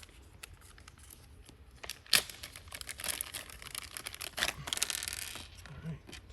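Rustling and crinkling of packaging while parts are rummaged through, with scattered small clicks and one sharp knock about two seconds in.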